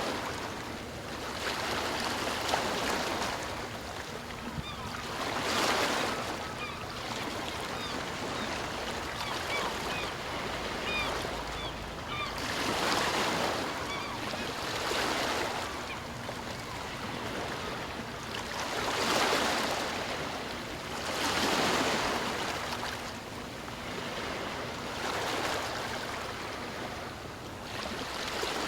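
Ocean waves breaking and washing on the shore, swelling and ebbing every few seconds.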